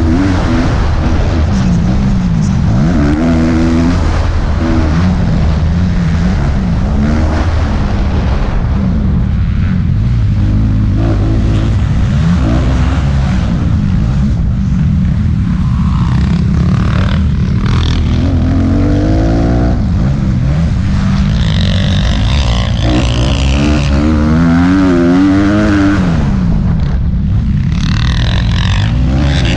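Motocross bike engines revving up and down again and again during a race, with a steady low rumble underneath.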